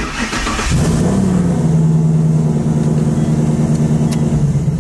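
Turbocharged Coyote 5.0 V8 of a 1,000 hp Mustang, loud and held at steady raised revs against the trans brake to build boost for a launch boost reading. It comes in suddenly, rises slightly in pitch about a second in, then drones steadily.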